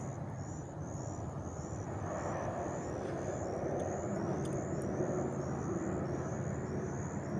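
Steady rumble of road traffic, cars and trucks, with a short high chirp repeating about twice a second over it.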